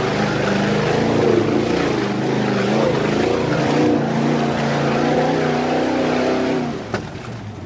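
Ford 289 small-block V8 with open headers running hard under load, its note rising and falling as the throttle is worked, heard from inside the truck's cab. It eases off near the end, with a single sharp knock about seven seconds in.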